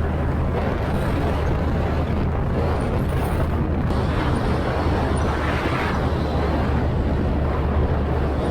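Checkmate speedboat's engine running steadily under way at speed, a constant low drone with a rushing noise of wind and water over it.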